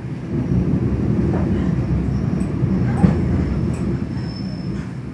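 EN57 electric multiple unit rolling slowly and braking into a station, heard from inside the carriage: a steady low rumble with a few short knocks, and a faint high wheel or brake squeal about four seconds in.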